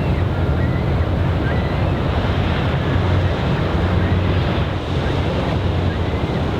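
Steady wind on the microphone over moving harbor water, with a low, steady engine rumble underneath.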